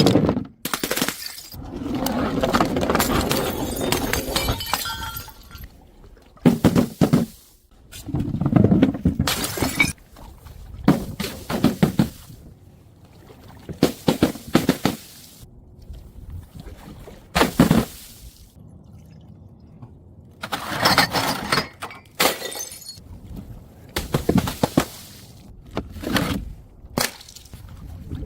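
Glass bottles striking stairs and breaking, one after another: a series of sharp smashes and crashes, some followed by a longer clatter of shattering glass.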